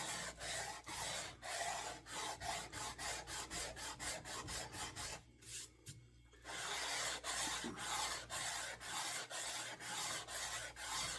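Sanding plane rubbed back and forth along the flat facets of a wooden axe handle, in quick even strokes about two to three a second, with a pause of about a second midway. The handle is being flattened into a crisp octagon.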